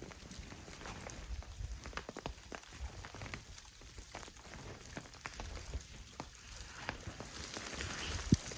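Irregular patter of drops ticking onto a tarp shelter, with one louder knock near the end.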